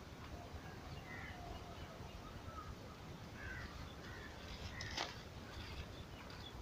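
Several short bird calls over a steady low rumble, with a sharp click about five seconds in.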